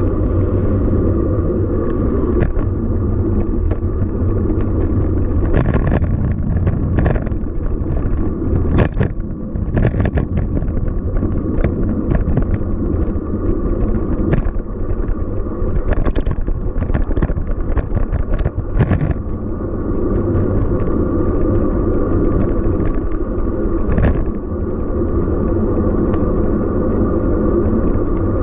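City street noise: a loud, steady low rumble with many short clicks and ticks scattered through it.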